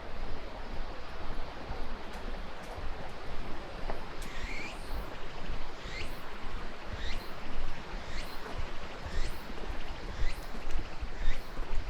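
Steady outdoor rushing noise, like a river below or wind on the microphone, with a low rumble. From about four seconds in a bird calls again and again, short high notes that sweep downward, roughly one a second.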